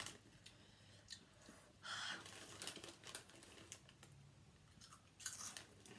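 Near silence with faint crunching and crinkling from eating Flaming Hot Cheetos, in short bursts about two seconds in and again a little after five seconds.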